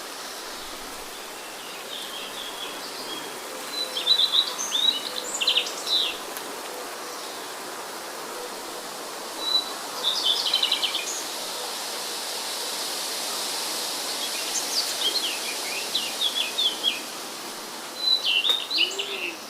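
A songbird singing short bursts of quick chirping notes four times, over a steady hiss of wind and rain.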